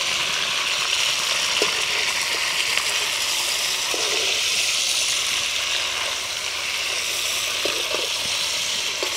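Whole marinated chicken sizzling steadily as it fries in hot oil in an iron wok, with a few faint ticks and scrapes of a metal spatula against the pan.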